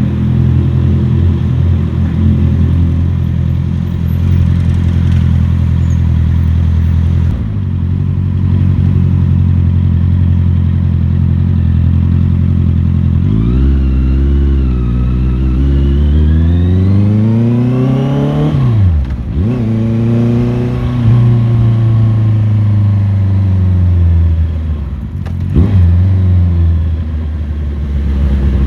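Motorcycle engine running under way, steady at first, then revving up for several seconds about halfway before dropping sharply at a gear change, with another brief gear change near the end.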